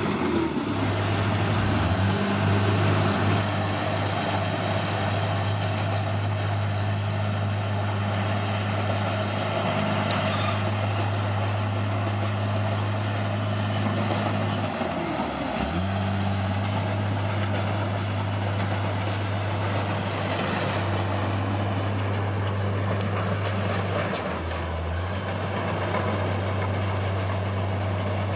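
Caterpillar D6R bulldozer's diesel engine running steadily. Its note sags briefly about a second in, again about halfway through, and once more near the end, each time recovering.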